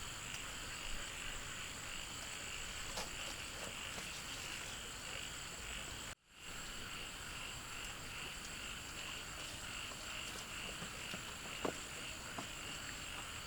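Steady chorus of frogs and insects calling, a continuous high trill with a few faint clicks, cut off briefly about six seconds in.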